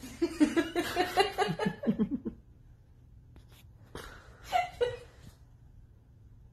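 A person laughing in quick, rapid bursts for about two seconds, then a short voiced sound about four and a half seconds in.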